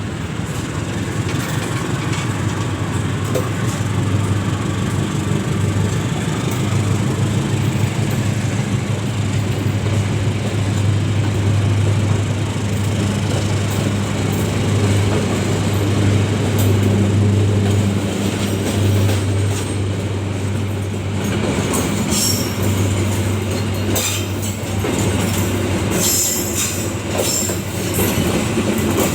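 Diesel locomotive hauling a train past at the station, its engine giving a steady low drone throughout. In the last several seconds, sharp high-pitched wheel squeals and clicks from the rails come in over the drone.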